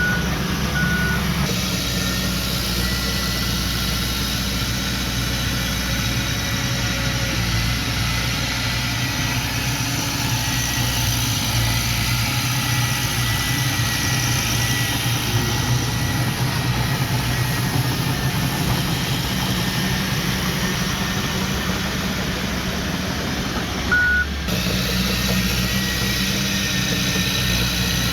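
Engine of a heavy construction machine running steadily. A few short high beeps sound just after the start and once more about 24 seconds in, typical of a reversing alarm.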